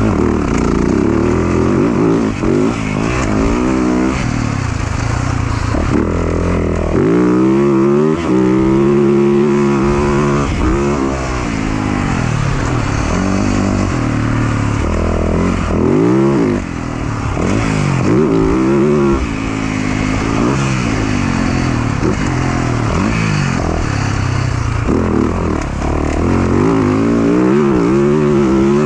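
450cc four-stroke motocross bike ridden hard on a dirt track. The engine revs climb and fall again and again as the throttle is opened and rolled off through the gears, jumps and corners.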